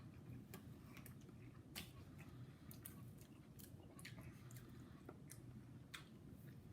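Faint chewing of a mouthful of sub sandwich, with soft, irregular wet clicks of the mouth over a low room hum.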